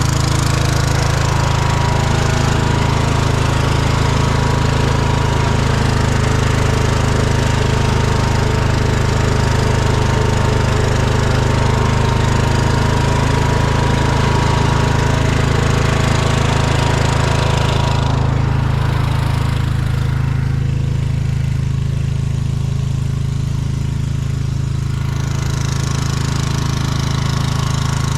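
An engine running steadily at one speed, with a rattling, clattering noise over its low drone that falls away about two-thirds of the way through while the engine keeps running.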